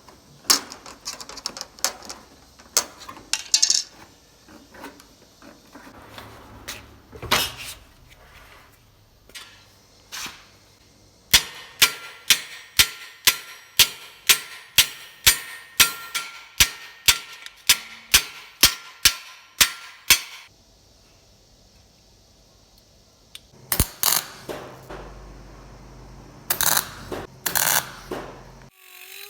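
A hammer striking sheet metal: scattered taps at first, then a steady run of blows, about two or three a second, each ringing, and a few more strikes near the end.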